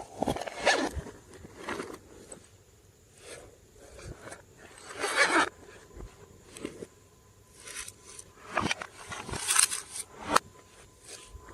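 Glossy slime being squished and stretched by hand, giving irregular sticky squelches and crackles with short quiet gaps, several of them louder bursts.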